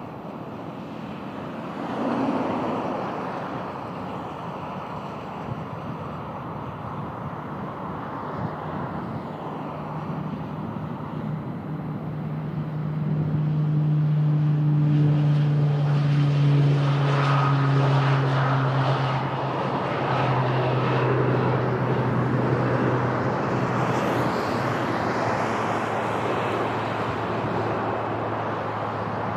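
Beechcraft Super King Air 300 twin turboprop departing: a steady propeller drone that grows louder from about halfway, its pitch dropping a little as it passes. Wind noise on the microphone runs under it.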